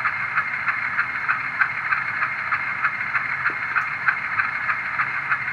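The LokSound sound decoder of an HO-scale GE U25B model diesel locomotive plays its prime-mover sound through the model's small speaker as the locomotive creeps along at speed step 1. The engine chugs steadily at about three beats a second with a thin, tinny tone.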